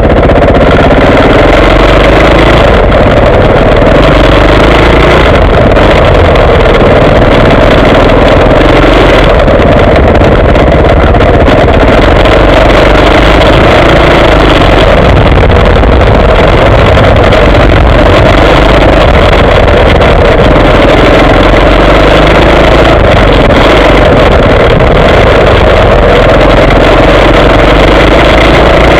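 Motocross motorcycle engine, very loud, revving up and down continuously as the bike is ridden.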